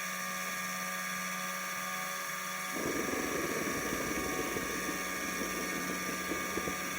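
JetCentral model turboprop turbine running with a steady high-pitched whine. About three seconds in, a rougher, lower rushing noise joins it.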